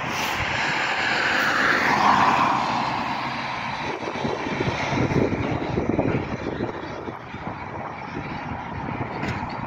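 VR Class Sr2 electric locomotive heading a freight train past, its rushing motor and fan noise swelling to a peak about two seconds in and falling in pitch as it goes by. A lower rumble of the wagons follows.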